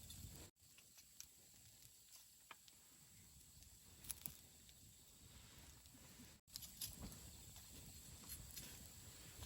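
Campfire burning quietly, with a few faint scattered pops and snaps of the wood over a soft hiss. The sound cuts out for an instant twice.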